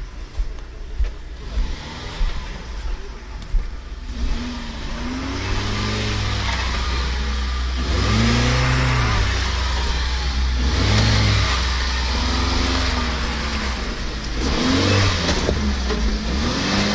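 Off-road 4x4's engine revving in repeated bursts under load, about six rises and falls in pitch from about four seconds in.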